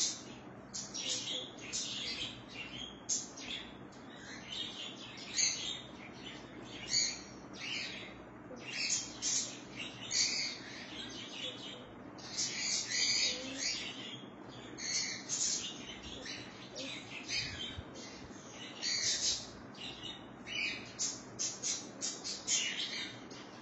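Birds chirping: many short, high chirps in quick, irregular runs.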